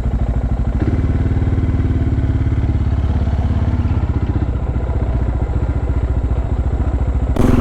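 Suzuki DR650's single-cylinder four-stroke engine running under way as the motorcycle is ridden, the engine note shifting about a second in.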